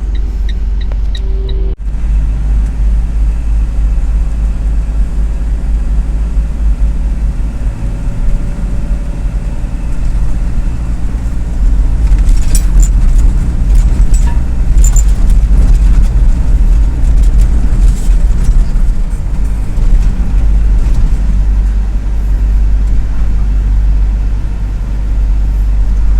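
Mini truck's engine idling with a steady low rumble while parked, with a few sharp clicks and knocks about halfway through.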